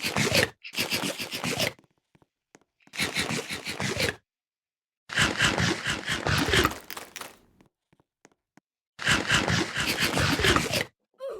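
Five separate bursts of crunching and crinkling, each about a second long with silent gaps between them, from potato chips being eaten and handled.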